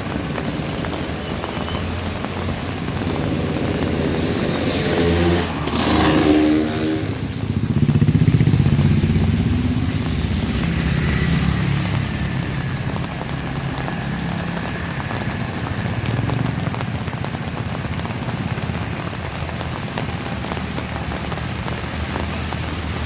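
Steady heavy rain, with a motorcycle passing about five seconds in: its engine note rises then falls as it goes by, and the low engine rumble fades away over the next several seconds.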